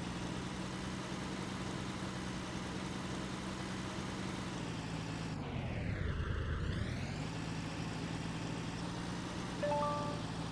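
A vehicle engine drone that drops in pitch in steps about five seconds in and climbs back up about two seconds later, with a short beep near the end.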